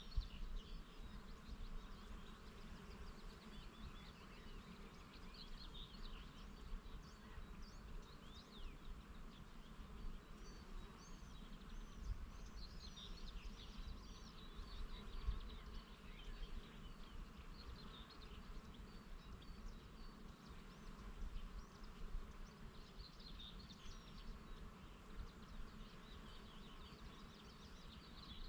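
Bees buzzing in a steady low hum, with small birds chirping in scattered bursts of short, quick, high notes. A low rumble with occasional bumps from a light breeze on the microphone runs under it.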